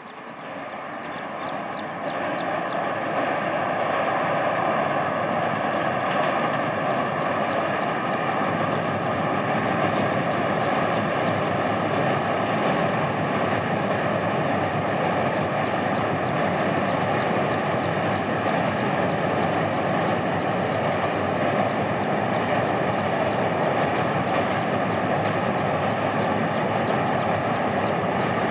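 Vande Bharat Express electric multiple-unit train crossing a steel girder bridge: a steady rumbling roar that builds over the first few seconds, then holds level. A quick, regular series of high ticks runs through it.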